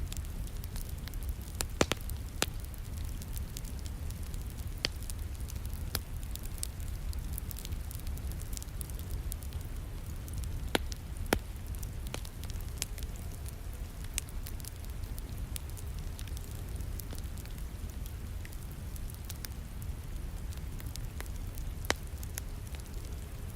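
Wood fire crackling, with scattered sharp pops over a steady low rumble, blended with the sound of falling rain.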